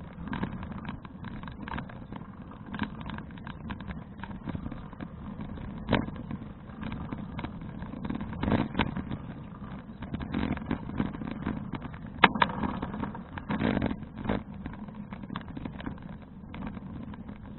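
Riding noise from a bicycle heard through an action camera: a steady rumble of wind and road, with scattered sharp knocks and rattles, the loudest about 6 and 12 seconds in.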